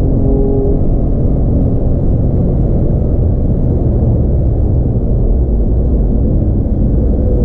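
Porsche 911 (997) Carrera's naturally aspirated flat-six running under way, heard as a loud, steady, low rumble mixed with road noise, with no clear rise or fall in pitch.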